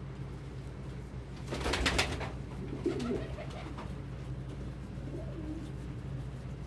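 Domestic pigeons cooing, with low wavering coos about three and five seconds in. A brief rustle comes just before, about a second and a half in, over a steady low hum.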